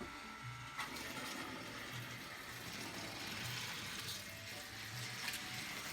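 Toy train running: a click about a second in, then a steady whirring hiss with faint low pulses about every half second.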